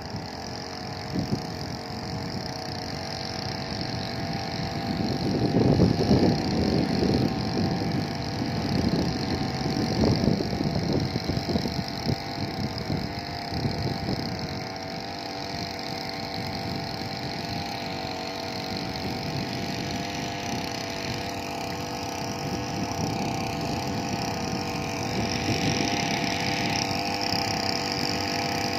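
Small petrol engine of a two-row paddy weeder running steadily, with a louder, rougher churning for several seconds about a fifth of the way in.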